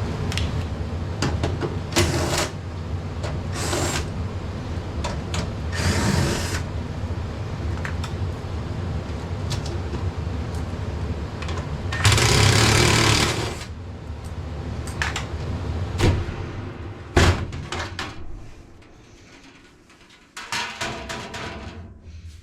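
Furnace blower's ECM motor running steadily, just measured at 3.2 amps against its 6.6 amp rating, a normal draw. Over it come intermittent bursts of clatter and rustling, the longest about 12 seconds in. A sharp knock comes about 17 seconds in, after which the running sound dies down.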